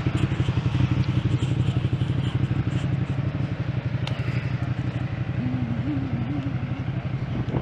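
Motorcycle engine running steadily with an even, rapid low pulse.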